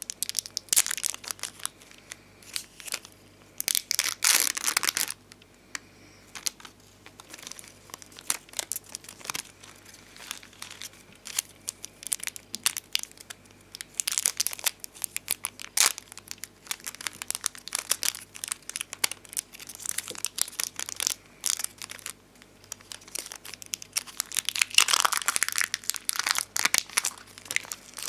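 Bonbon drop and ohajiki sticker sheets being handled, with plastic crinkling and tearing, peeling sounds in irregular crackly clusters. The clusters are loudest about four seconds in and again near the end.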